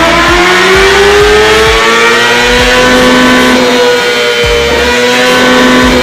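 Kawasaki ZX-6R's inline-four engine pulling hard at full throttle. Its pitch rises steadily for the first three seconds or so, then holds high near the top of the rev range. A music track with a thumping beat plays under it.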